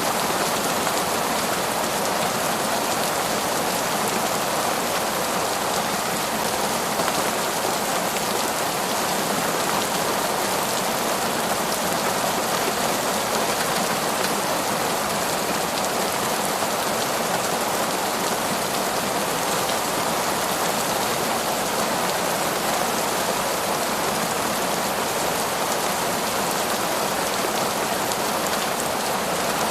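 Heavy, torrential rain falling steadily in a forest, a dense even hiss of drops with no let-up.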